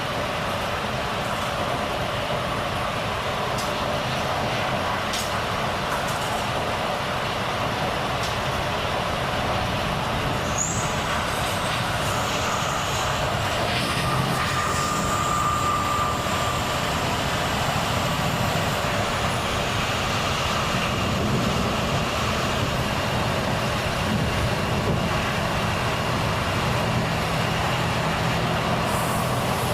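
Volvo FH truck driving: steady diesel engine and road noise from the moving truck, slowly getting a little louder.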